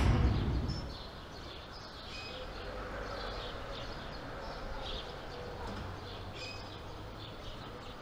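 Outdoor street ambience: small birds chirping in short repeated calls over a steady low background hum. A whoosh sound effect dies away in the first second.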